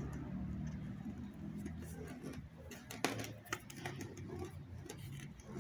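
Scattered light clicks and taps of small parts and tools being handled, with a sharper tick about three seconds in, over a low steady rumble.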